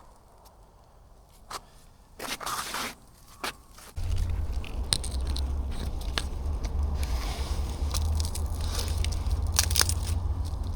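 Dry reeds burning, crackling with sharp pops; about four seconds in, a steady low rumble starts under the crackling.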